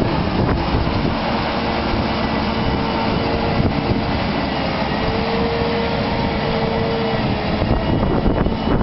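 Tractor engine running loudly under load, with a steady whine that stops near the end.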